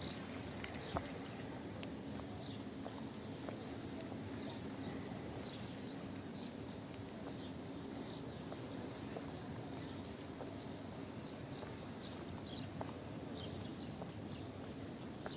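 Outdoor promenade ambience: a steady background hum with short, high chirps scattered irregularly through it and the odd faint click.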